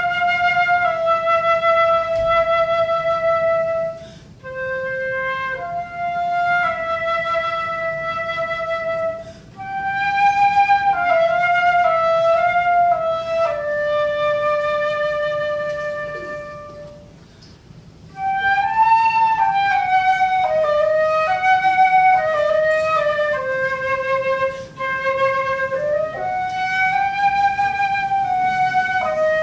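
Solo flute playing a slow melody of long held notes that step up and down, with a short pause for breath about seventeen seconds in.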